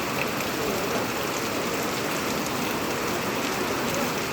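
Steady rain falling: an even hiss at a constant level.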